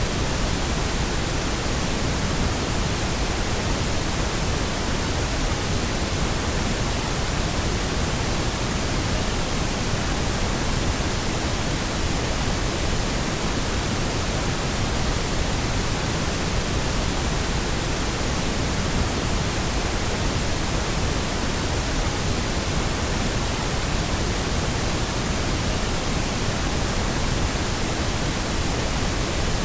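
Electronically generated pink noise: a steady, even hiss across the whole range, with no change or events.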